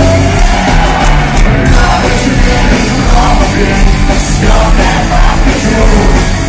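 Punk rock band playing live at full volume, with a yelled vocal over the band.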